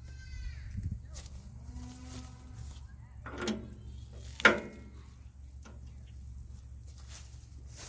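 Metal clanks from hooking up a farm implement: a short squeak, then two sharp clanks about a second apart, the second the loudest, over a steady low hum.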